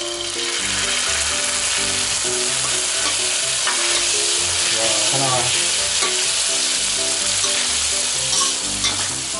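Canned five-spice diced pork and its sauce sizzling in a hot stainless steel wok with scrambled eggs, frying loudly and steadily as it is stirred with a spatula; the sizzle rises as the pork is poured in at the start.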